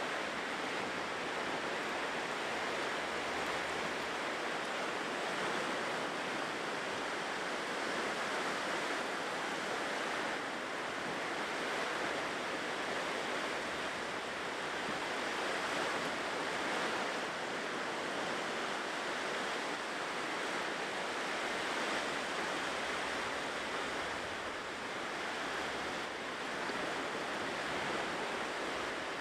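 Ocean surf washing ashore: a steady rush of breaking waves that swells and eases slightly.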